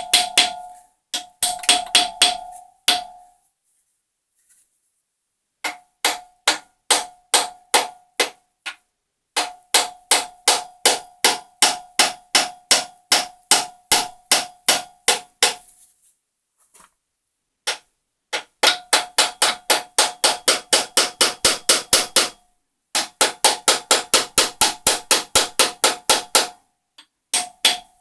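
Hammer tapping on metal, about three blows a second in several runs with short pauses, each blow ringing. The part being knocked at has not come free.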